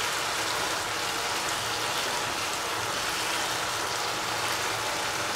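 Chicken and cauliflower sizzling steadily in a hot pan as they are stirred, with water cooking out of them.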